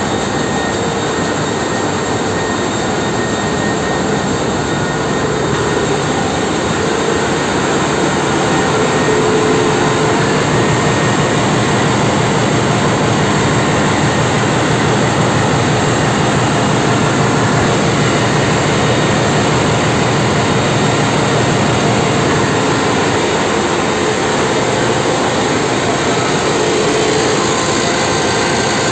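Machinery running in a ship's engine room: a loud, steady din with a constant hum running through it.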